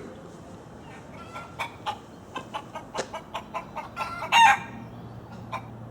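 A bird calling: a quick run of short clucking notes, then one loud call about four and a half seconds in.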